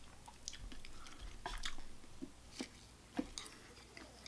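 A person chewing a mouthful of food, faintly, with a few soft scattered clicks.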